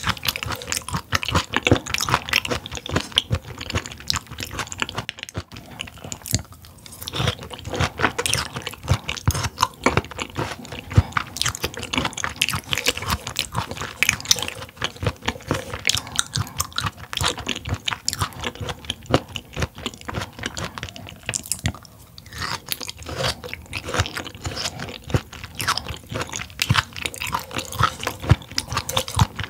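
Close-miked chewing of raw mullet gizzard (sungeo-bam): dense, rapid wet clicks and crunches from bite after bite.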